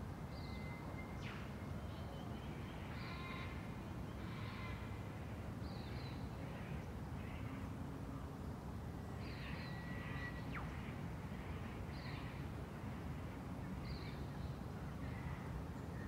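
Wild birds calling, a short call every second or so, some harsh and some chirpy, with a couple of thin whistled notes, over a steady low background noise.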